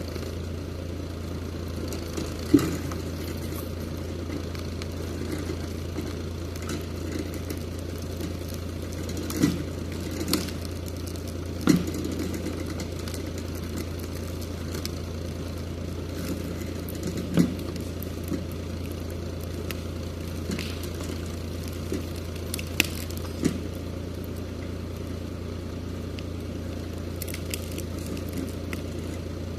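Steyr 540 tractor engine running at a steady, unchanging speed, with scattered sharp cracks and knocks over it.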